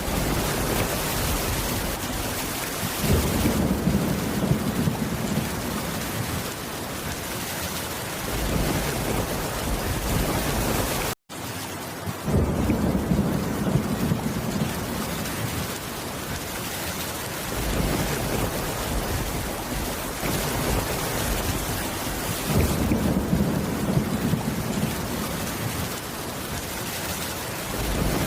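Steady heavy rain with low thunder rumbling in three times. The sound cuts out for an instant about eleven seconds in.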